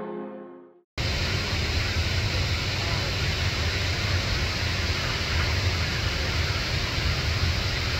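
Music fading out in the first second, then, after a brief gap, a steady, even rushing noise that does not change.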